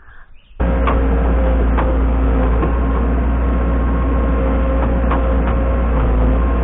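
Engine of a land-clearing machine used for pushing over trees and pulling stumps, running loud and steady. It starts abruptly about half a second in, with a few faint clicks over it.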